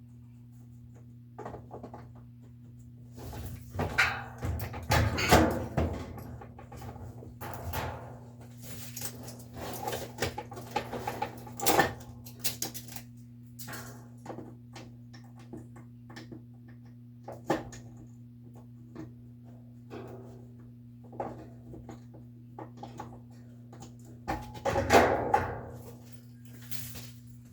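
Irregular knocks, clicks and scraping from hands and tools working on the parts of a top-load washer during disassembly, with louder stretches of clatter around five seconds in and near the end. A steady low hum runs underneath.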